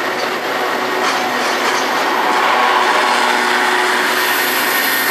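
Metra commuter train rolling past, a steady noise of wheels on rails that swells a little midway.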